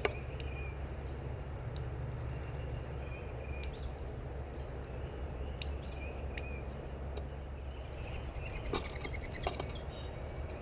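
Outdoor background with a steady low rumble, broken by scattered short, sharp bird chip notes and a few brief high chirps.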